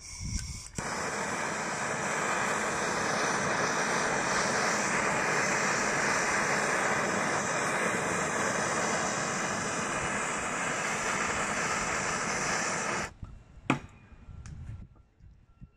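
A high-speed power cutting tool running steadily as it cuts a screwdriver slot into the head of a seized screw on a Bendix truck air purge valve. It cuts off abruptly near the end, followed by a single sharp click.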